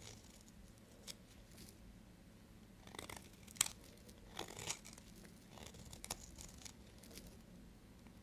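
Knife cutting into bars of soap: a series of short, crisp cutting and crunching strokes, busiest around the middle.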